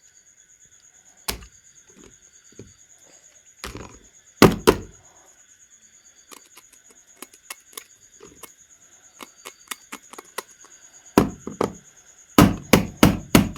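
Scattered hard knocks and light clicks of objects being handled, the loudest about four and a half seconds in, then a quick run of knocks near the end. A faint steady high-pitched tone sits underneath.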